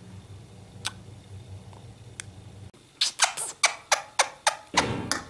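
Pet parrot giving a rapid run of short, sharp calls, about three or four a second, starting a little over halfway through after a low steady hum with a couple of faint clicks.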